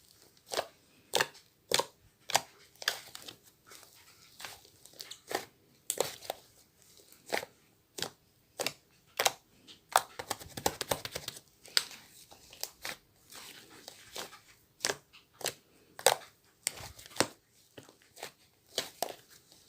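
Slime being pressed and poked by hand, making irregular sharp clicks and pops, with a quicker run of crackling about halfway through.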